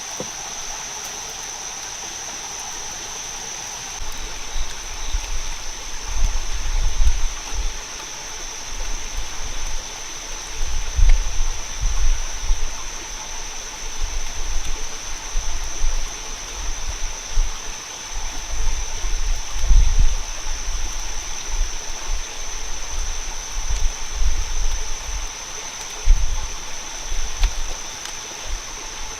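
Rainforest ambience: running water like a stream, under a steady high-pitched insect-like drone. From about four seconds in, irregular low rumbles come and go.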